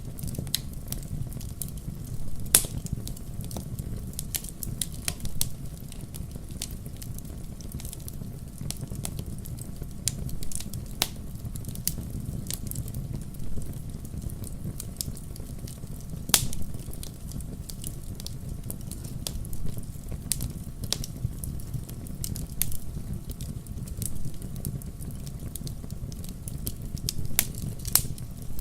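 Wood fire crackling: irregular sharp pops and snaps of burning firewood over a low, steady rumble of flames, with a few louder pops about two and a half seconds in, near the middle, and near the end.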